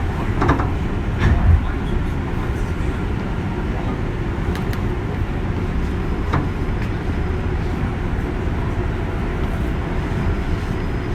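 Interior sound of a JR West 201 series electric train: a steady low rumble, with a few short sharp clicks, the loudest near the start.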